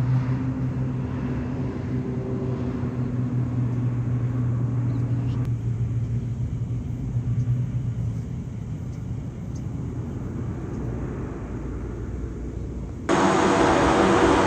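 Airbus A330 freighter's jet engines: a low steady hum and rumble that fades away over the first half. Near the end the sound jumps abruptly to a much louder, even rushing noise.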